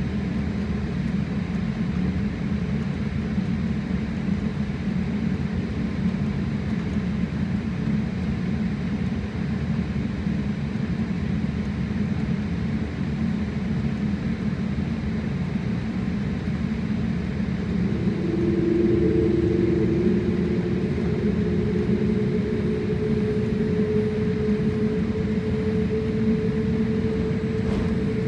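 Airliner cabin noise: a steady low rumble of jet engines and airflow heard from a passenger seat. About eighteen seconds in, a steady hum enters and the noise grows slightly louder.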